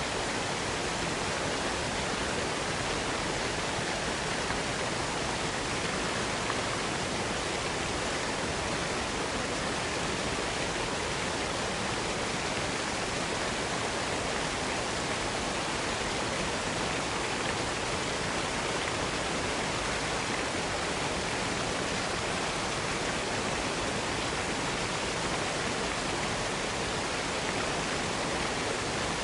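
Waterfall cascade: water pouring and splashing in a steady, unbroken rush.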